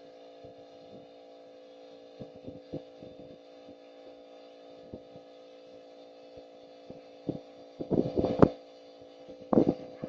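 Steady mechanical hum with scattered knocks, and two louder bursts of clattering about eight and nine and a half seconds in.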